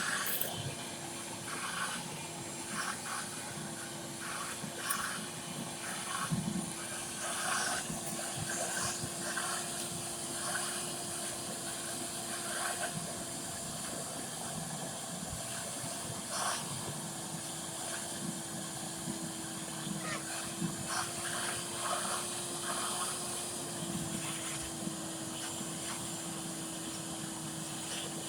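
Electric pressure washer running: a steady motor hum under a continuous hiss of water spray.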